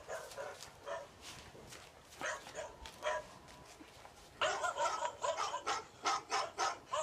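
Recorded dog barking played through a phone speaker: a few scattered single barks, then about four and a half seconds in a louder, rapid run of barks, roughly three a second.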